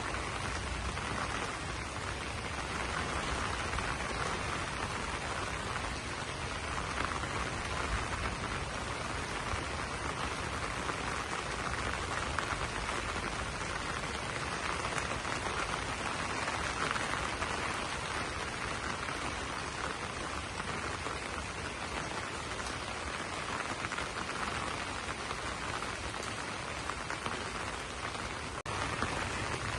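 Steady rain falling on broad banana leaves, an even dense hiss of drops, with a momentary break near the end.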